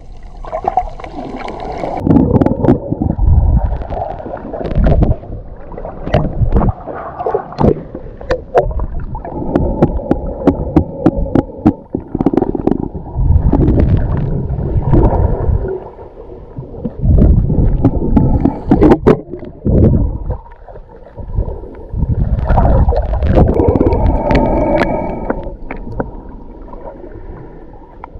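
Muffled water sound from a camera in or at the surface of the sea during snorkelling: water gurgling and churning in uneven surges, with scattered sharp clicks and knocks.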